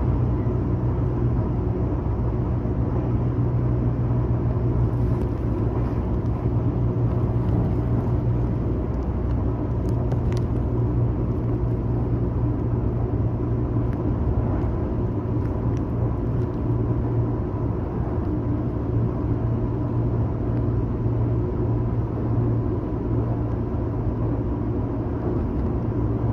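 Tobu Railway train heard from inside a passenger car: a steady running rumble from wheels and track, with a thin steady whine above it.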